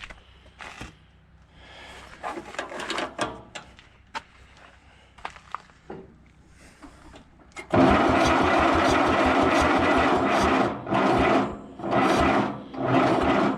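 Allis-Chalmers tractor engine being cranked over by its electric starter, a steady fast chugging for about three seconds, then three shorter cranking bursts. Ether has been sprayed in but the engine does not fire; its ignition timing may be out.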